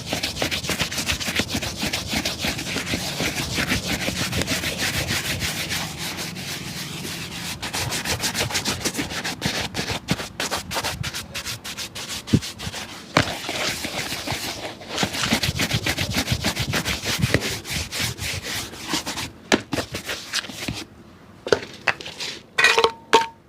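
Rapid back-and-forth rubbing strokes worked over a shoe, with a brief pause about seven and a half seconds in. Near the end the strokes give way to a few scattered knocks and clicks.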